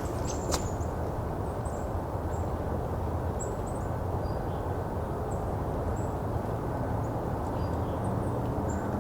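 Golden-crowned kinglets calling: scattered, very short, high, thin notes over a steady low background rumble, with a sharp click about half a second in.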